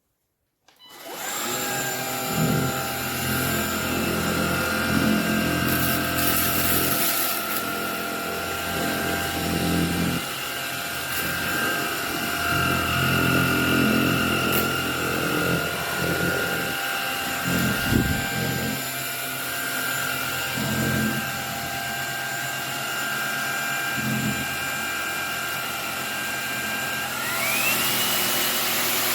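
MONSGA cordless stick vacuum running. Its brushless motor starts about a second in with a steady high whine, with uneven lower noise from the cleaning head working the floor. Near the end the whine rises quickly to a higher pitch and holds there, as when the vacuum is switched to a stronger suction mode.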